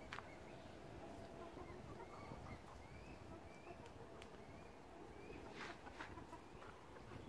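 Quiet outdoor garden ambience with faint, short high chirps from small birds scattered throughout, a few soft clicks or rustles, mostly around the middle and near the end, and a faint steady hum that fades in the first second or two.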